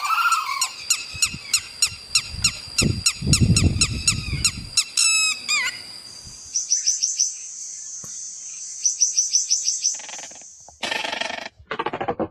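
Songbirds calling: a fast series of high, evenly repeated chirps, about four a second, for the first five seconds, then a few quick falling notes and a higher, thinner trilling series. Near the end a different, lower pulsing sound starts.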